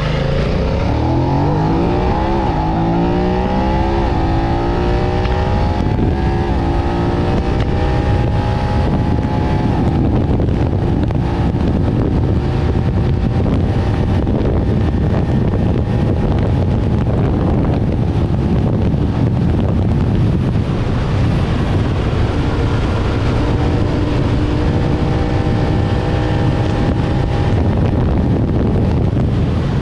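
BMW F900R's parallel-twin engine accelerating, its pitch rising for the first several seconds, then running at a steady speed with a heavy wind rush on the microphone.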